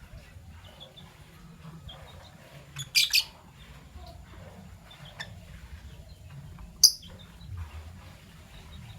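Fischer's lovebirds chirping: scattered short, high chirps, with a loud burst of chirps about three seconds in and a sharp single chirp near seven seconds, over a low background rumble.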